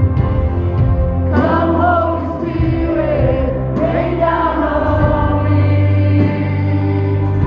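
Gospel worship music: voices singing over sustained keyboard chords, with a sung line coming in about a second and a half in.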